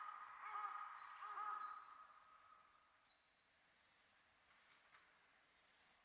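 Birds calling: a repeated ringing call in quick bouts of notes, fading out about two seconds in, then a few thin, high, down-slurred chips and a short high whistle near the end.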